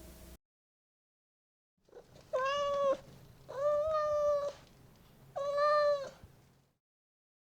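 Domestic cat meowing three times, each meow about half a second to a second long with a short pause between.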